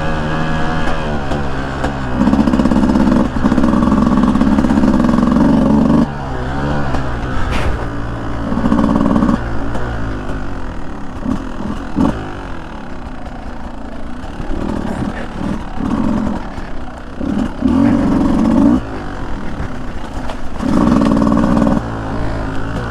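Beta 200 two-stroke dirt bike engine being ridden, revving up in about five bursts of one to four seconds and dropping back between them, with a few sharp knocks.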